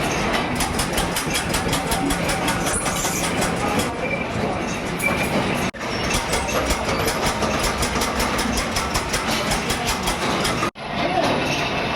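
Factory machinery in a metal-wire workshop running with a fast, even clatter, breaking off for an instant twice.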